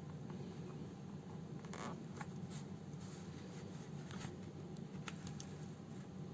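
Faint rustling and scratching of hand sewing: a needle and thread pulled through a fabric house slipper, several short strokes, one longer pull just before the two-second mark, over a steady low hum.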